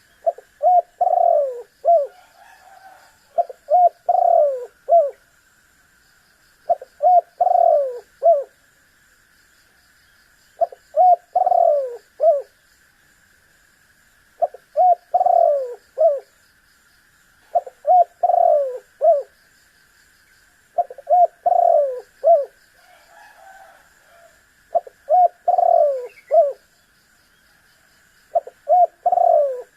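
Spotted dove (tekukur) cooing: a phrase of four or five coos, repeated about every three to four seconds, nine times, over a faint steady hiss.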